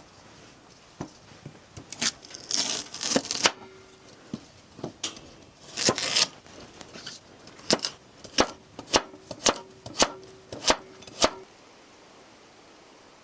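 Scraping and rustling, then a run of about eight sharp chopping strikes roughly half a second apart that stop abruptly.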